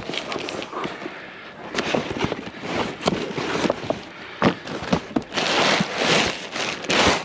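Rummaging through a pile of discarded junk: repeated clattering knocks and rustling as items are shifted and moved, with a louder stretch of rustling and clatter near the end.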